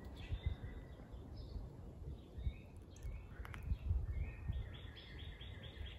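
Songbird calling in the woods: scattered short chirps, then a quick run of about seven even, repeated notes near the end, over a low, steady outdoor rumble.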